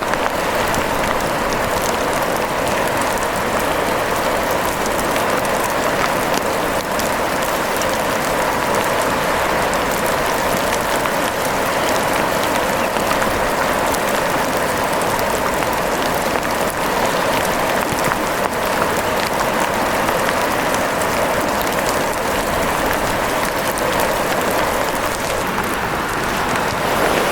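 Steady, dense rain falling, an even hiss with scattered sharp drop ticks.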